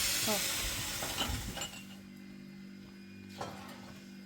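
Light clinks of glass and dishes over a steady hiss that stops about two seconds in.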